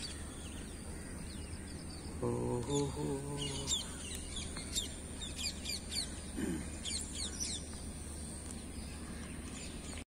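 Small birds chirping repeatedly in quick, short, high-pitched down-slurred notes over a steady low background hum. A voice calls out briefly about two seconds in, the loudest moment.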